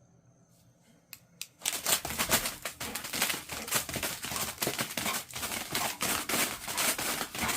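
Dense crinkling and crackling, like plastic or paper being handled or torn, starting about a second and a half in after a near-quiet start broken by two clicks.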